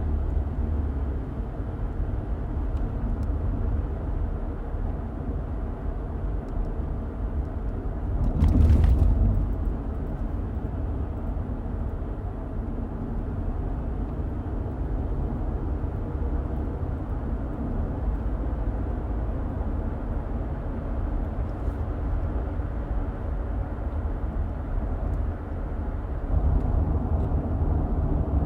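Road noise of a moving car heard from inside: a steady low rumble of tyres and engine. A brief louder rush about a third of the way in, and the rumble grows louder near the end.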